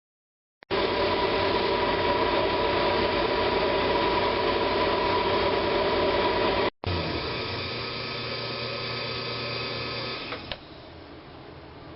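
Woodturning lathe spinning a wooden bowl blank while a turning tool cuts it, a loud steady mechanical noise with a few steady tones. It breaks off abruptly twice, and about ten and a half seconds in it drops to a quieter steady run.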